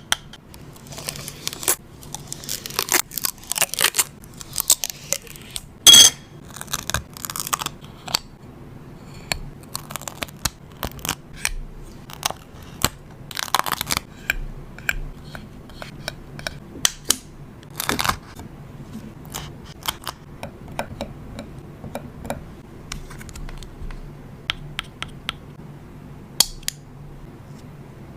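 Close-up paper and stationery handling for art journaling: rustling and crinkling paper with many short clicks and taps of tools on the page, and a sharp knock about six seconds in.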